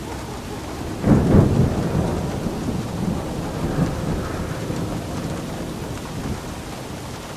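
Steady rain falling, with a thunderclap about a second in that breaks sharply and then rumbles away over several seconds.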